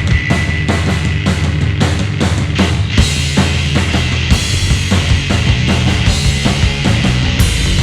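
Live three-piece heavy rock band (electric guitar, bass guitar and drum kit) playing a loud instrumental passage. After a drum lead-in the full band comes in together, and the cymbals grow thicker about three seconds in.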